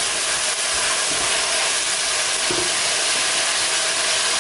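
Frozen okra, potato and onion frying in olive oil in a steel pot: a steady, dense sizzle, with a wooden spoon stirring through the vegetables at the start.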